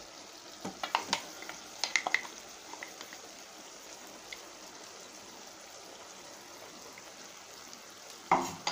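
Beetroot, carrot and lemon pieces simmering in sesame oil in a clay pot, with a low steady sizzle. A few light clicks and taps in the first couple of seconds as chilli powder is tipped in from a steel mixer jar, and a louder knock near the end.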